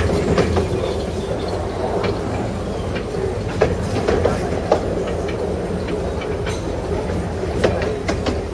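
Carriages of a 15-inch gauge miniature railway train running along the track: a steady low rumble with the wheels knocking over rail joints every second or so, irregularly.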